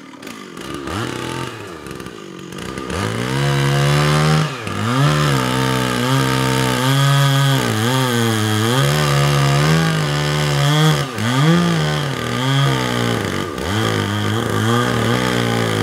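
Stihl two-stroke chainsaw running at high revs while cutting into a tree trunk. The engine builds up about three seconds in, then its pitch sags and recovers several times as the chain bogs under load.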